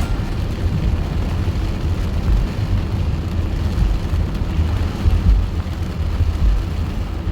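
A car moving along a road: a steady low rumble of engine and tyres.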